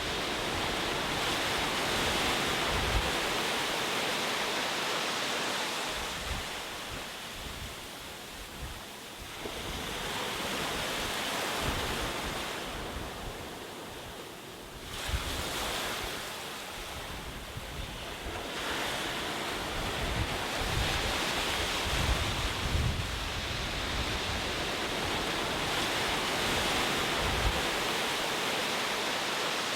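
Ocean surf, waves breaking and washing ashore, the rush swelling and falling back every few seconds.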